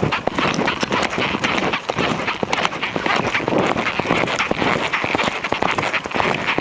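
Horses' hooves striking the ground while being ridden: a dense, irregular run of thuds and clicks from several hoofbeats over a steady rushing noise.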